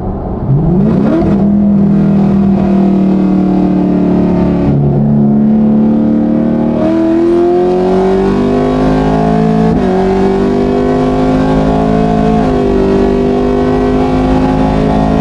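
The 6.2-litre LT1 V8 of a 2019 Chevrolet Camaro SS, straight-piped with no mufflers or secondary cats behind its headers and X-pipe, at full throttle in a hard pull. The revs jump sharply about half a second in, then the pitch climbs and steps several times at the gear changes. The exhaust is very loud.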